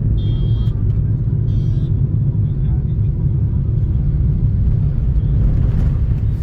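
Steady low rumble like a vehicle in motion. Two short high-pitched sounds about a second apart come near the start.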